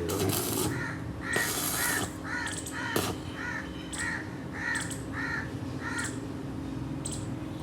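Crows cawing over and over in quick short calls, two or three a second. Two short hissing bursts come in the first two seconds and a sharp click about three seconds in.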